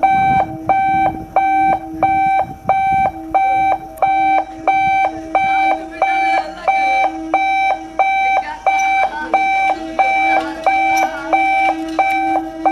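Electronic warning alarm beeping in a fast, even rhythm of about two beeps a second, over a steady lower hum.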